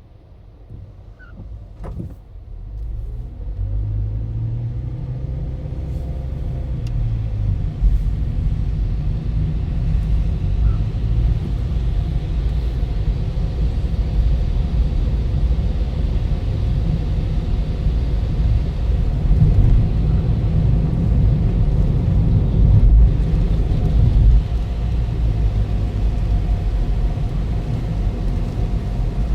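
Toyota Ractis driving: engine and road rumble growing louder over the first few seconds as the car speeds up, then holding steady.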